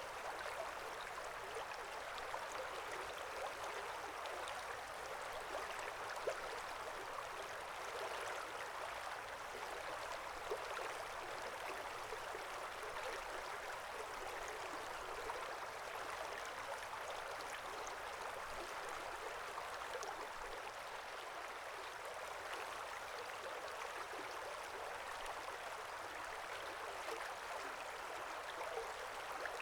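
A small stream flowing and babbling steadily over stones, a continuous rush of water flecked with tiny splashes.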